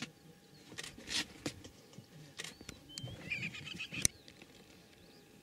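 Faint bird chirps and short whistles, a small flurry of chirps about three seconds in, with a few sharp clicks, the sharpest about four seconds in.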